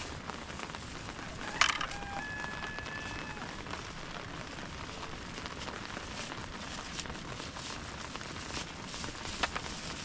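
Rain pattering steadily in fine, crackly ticks. A sharp knock about a second and a half in rings briefly, and a fainter click comes near the end.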